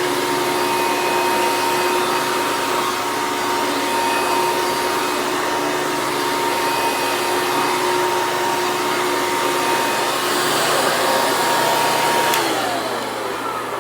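1999 Hoover Caddy Vac vacuum cleaner running with a steady whine. About twelve seconds in it clicks off and the motor winds down, its pitch falling.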